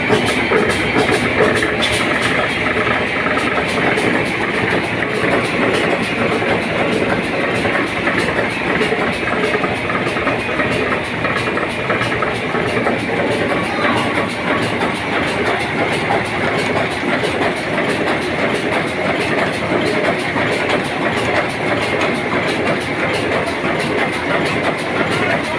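Steady, loud din of heavy machinery running, with a few sharp clicks in the first two seconds.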